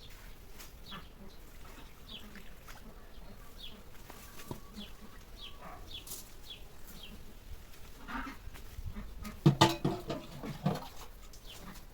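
Small birds chirping over and over in short, high, falling notes, with a louder pitched call breaking in about nine and a half seconds in and lasting about a second.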